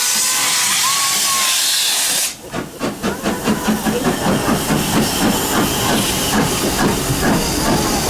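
Steam locomotive letting off a steady, loud hiss of steam. About two seconds in it cuts abruptly to the train running with a fast, even rhythmic beat.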